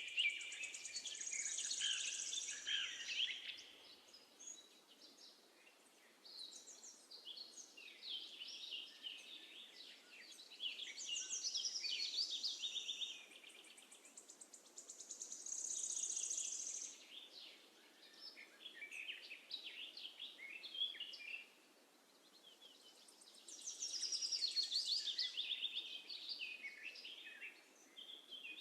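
Small songbirds singing: a series of song phrases a few seconds apart, each a run of quick chirps and high trills, over a faint steady hiss.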